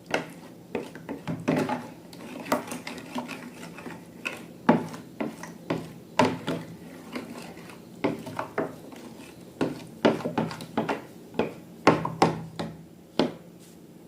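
Slime being mixed and worked in a bowl, giving irregular clicks and taps, a few each second.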